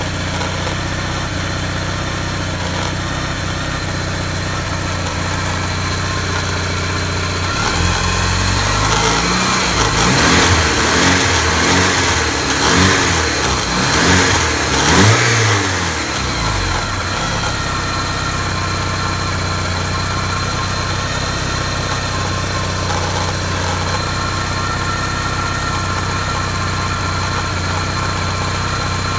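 Porsche 944S 16-valve four-cylinder engine, fitted with an S2 intake manifold conversion and a cold air intake, idling steadily. From about a quarter of the way in it is revved up and down in several throttle blips over some eight seconds, then settles back to idle.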